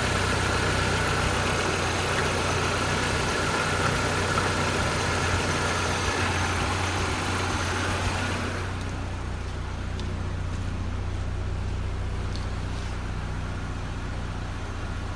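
VW Passat B5's 1.6-litre AHL four-cylinder petrol engine idling steadily. About eight seconds in, the sound turns duller and a little quieter, losing its hiss, while the low engine hum carries on unchanged.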